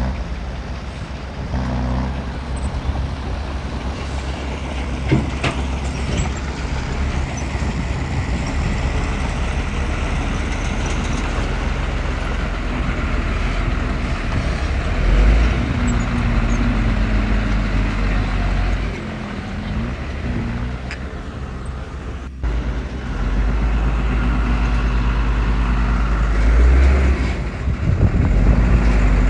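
Heavy diesel earthmoving machinery running under load, the engine note rising and falling as the machines work, with a brief break about two-thirds through and a louder stretch near the end.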